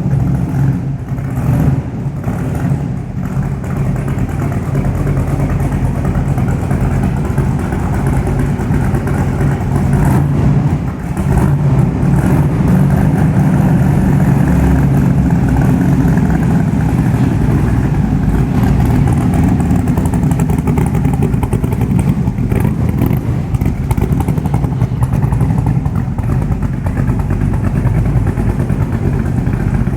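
Superformance Cobra's V8 engine running at idle. There is a brief dip about eleven seconds in, after which it runs a little louder.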